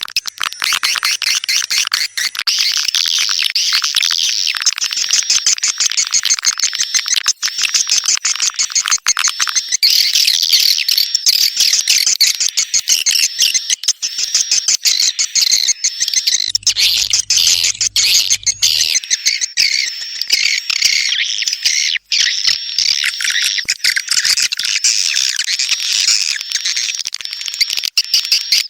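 Recorded chirping of edible-nest swiftlets, played as a swiftlet lure sound. It is a dense, unbroken run of rapid, high-pitched twitters and chirps.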